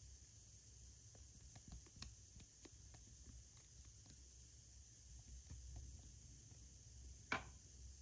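Near silence with scattered faint clicks and taps of small objects being handled, a sharper click about two seconds in and a louder one near the end.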